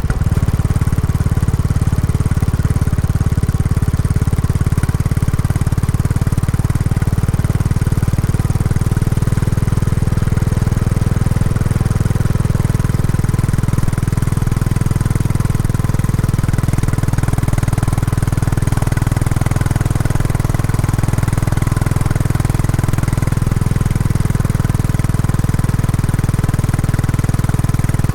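Royal Enfield Classic 350's single-cylinder engine running through its stock exhaust on the move, a steady low beat of closely spaced firing pulses; the engine is new and being run in. The note shifts slightly about nine seconds in.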